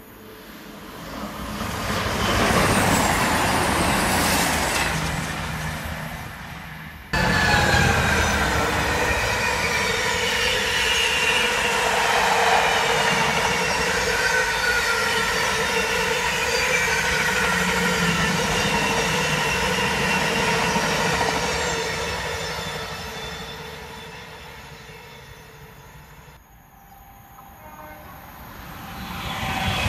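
A long freight train of mostly empty container flat wagons rolling past at speed, its wagon wheels squealing high-pitched, then fading away. Before it a train draws near and gets louder. Near the end a Class 390 Pendolino electric train approaches, louder and louder.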